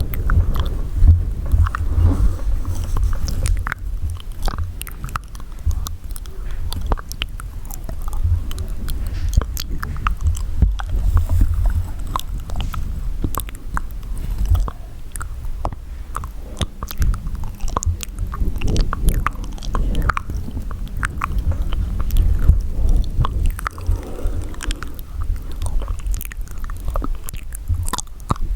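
Close-miked wet mouth sounds: a dense, irregular run of small saliva clicks, smacks and pops, over a low rumble.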